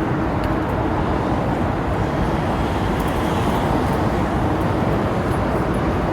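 Steady roar of road traffic crossing the 25 de Abril suspension bridge.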